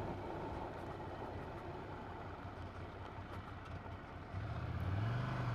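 Ducati Monster 797's air-cooled L-twin engine running low and quiet, with the engine tone rising and growing louder about four and a half seconds in.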